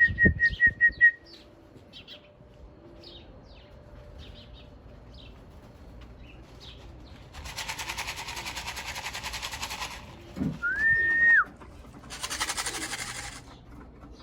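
A person whistling to call circling racing pigeons down to the loft: a quick stuttering whistle at the start and one longer whistle, rising then falling at the end, about eleven seconds in. Two stretches of dense rattling hiss come in between and after, with faint small-bird chirps in the background.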